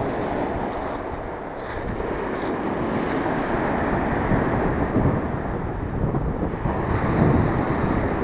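Rough sea surf breaking and washing against the shore, with wind buffeting the microphone; the wash swells louder a few times.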